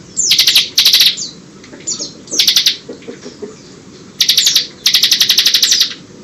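Bar-winged prinia (ciblek) singing in bursts of very fast, rattling trills with short chirps between them, the ngebren style of delivery. Its song is filled with learned white-eye (pleci) phrases. The longest burst comes near the end and lasts about a second.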